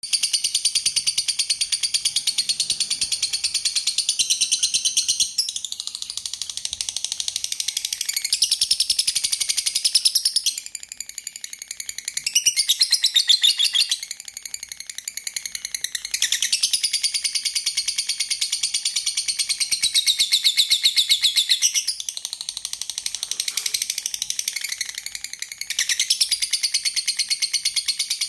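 Lovebirds chattering: a continuous, shrill twittering of rapid chirps.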